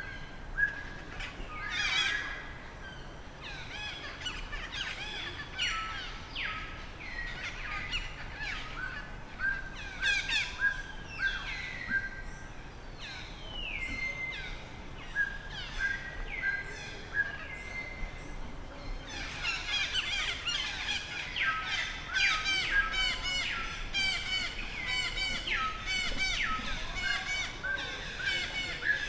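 Birds chirping and calling in a chorus of short, high calls. The calls grow denser and overlap from about two-thirds of the way through.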